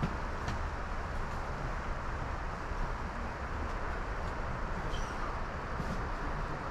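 Motorcycle engine running with a low, steady rumble.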